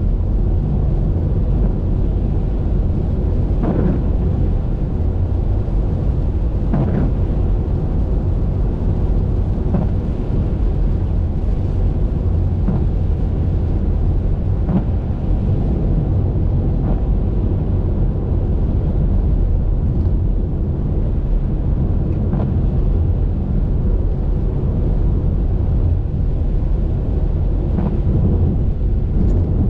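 Steady low rumble of a car driving on a highway in the rain, road and engine noise with faint short ticks every few seconds.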